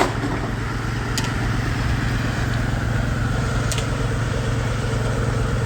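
Steam-driven Frick sawmill running steadily between cuts, its circular blade spinning free. A steady mechanical hum, with a faint sharp tick about every two and a half seconds.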